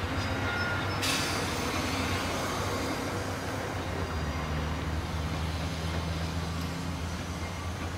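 Amtrak passenger train on the tracks with a steady low diesel rumble. About a second in, a sudden hiss sets in and slowly dies away.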